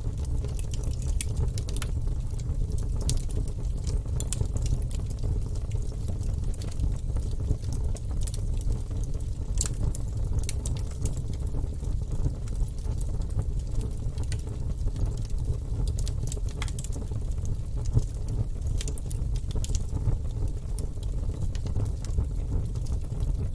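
Wood fire burning in a fireplace: a steady low rumble of the flames with irregular crackles and pops from the logs, several a second, a few sharper snaps standing out.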